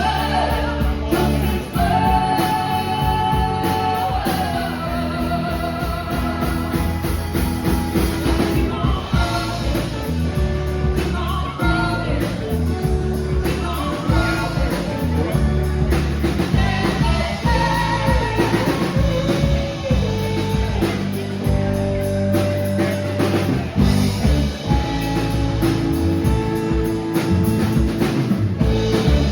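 Live rock band playing, with drum kit, bass and electric guitar, and a sustained lead melody carried over the top.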